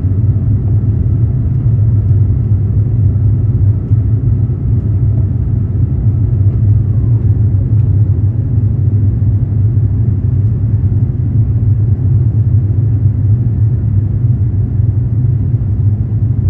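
Airbus A350-900's Rolls-Royce Trent XWB engines during takeoff and climb-out: a steady, loud, deep rumble. A faint high tone above it slides down about halfway through.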